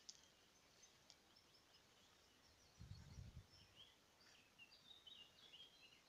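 Faint birdsong: scattered short chirps and quick warbled phrases from small songbirds, busier in the second half. There is also a brief low rumble about three seconds in.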